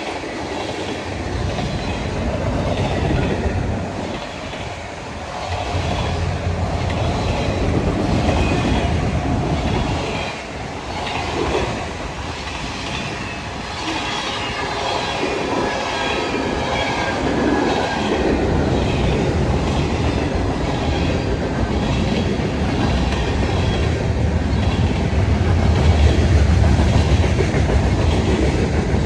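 A train rolling past, its wheels clicking rhythmically over the rail joints, with a low rumble that grows louder in the last third.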